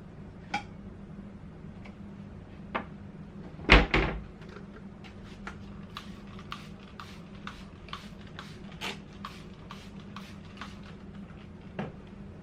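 A cabinet door knocking shut with a loud double thud about four seconds in, among a few lighter knocks and a run of small clicks and clatter from things being handled.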